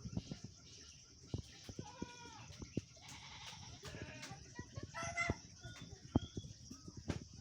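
Animal calls, two short pitched calls that arch up and down in tone, about two seconds in and about five seconds in, over a steady high hiss and scattered faint clicks.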